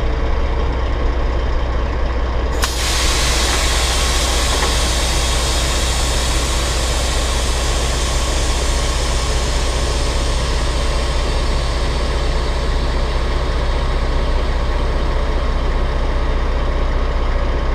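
Heavy truck's Cat C15 diesel engine idling steadily. About two and a half seconds in, a sudden loud hiss of released air starts and slowly fades away.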